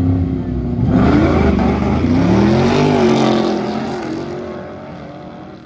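Street-race launch: cars' engines rev hard and accelerate away about a second in, the engine pitch climbing and then dropping off as the cars fade into the distance.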